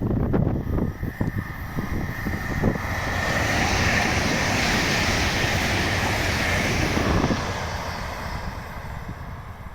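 A train passing: its rushing wheel and rail noise builds over a few seconds, holds, then fades away near the end. Wind buffets the microphone, strongest at the start.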